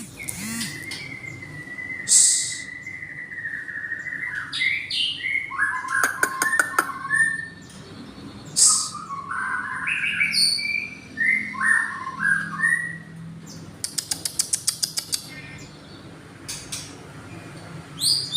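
A songbird singing a varied song: a long held whistle that drifts slightly lower, then runs of short rising and falling whistled notes, with two rapid clicking rattles, around 6 seconds in and again near 14 seconds, and a few short harsh notes.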